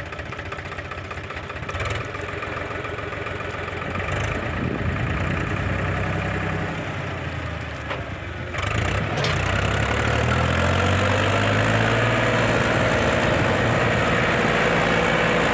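Heavy diesel engine running at idle, then revving up about eight and a half seconds in and staying louder to the end.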